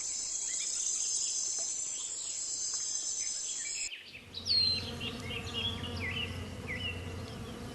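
Outdoor insect and bird sounds: a steady high-pitched insect chirring with short bird chirps, then an abrupt cut about four seconds in to a low, steady insect buzz with falling bird whistles over it.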